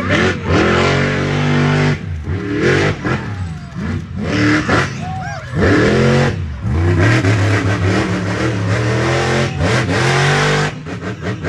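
Monster truck engine revving hard again and again, its pitch dropping and sweeping back up between throttle bursts.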